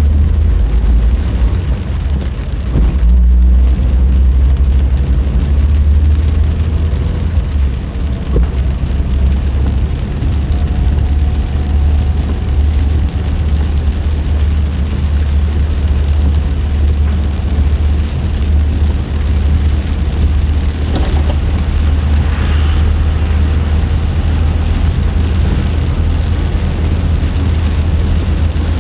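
Car driving in heavy rain: a steady, loud low rumble of road and engine with rain hiss over it, and a couple of brief sharper sounds about three quarters of the way through.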